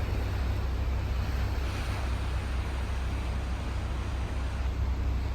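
Steady low rumble of wind buffeting the microphone on a moving cruise ship's balcony, with an even rushing hiss of air and sea beneath it that swells slightly about two seconds in.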